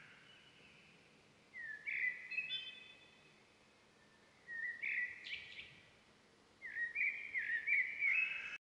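A songbird singing three short phrases of quick, rising chirps over a faint background hiss. The sound cuts off suddenly near the end.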